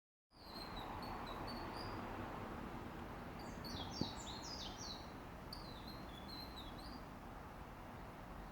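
Small songbirds chirping: short, high, thin notes in quick runs, many sliding down in pitch, over a steady background hiss. A single sharp click comes about four seconds in.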